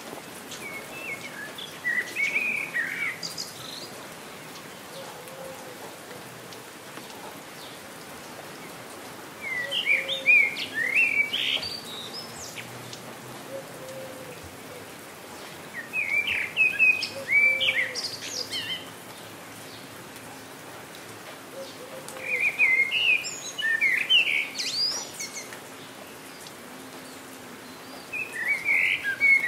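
Steady rain falling, with a songbird singing short phrases of quick chirps about every six seconds, five times over.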